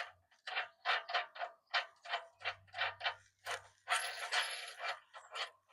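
Hand ratchet wrench being worked on a bumper bolt: a quick series of rasping ratchet strokes, about two to three a second, with one longer run of clicking near the middle.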